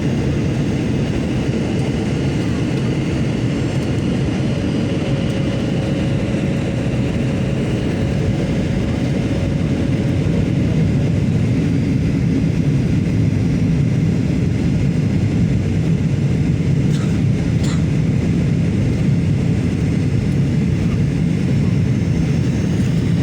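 Steady cabin noise of an airliner in flight: an even, low rumble of engines and rushing air heard from inside the passenger cabin.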